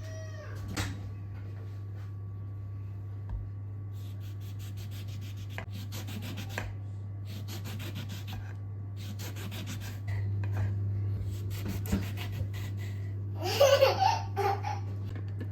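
Several short runs of rapid rubbing strokes over a steady low hum, followed near the end by a brief, loud, high-pitched vocal cry.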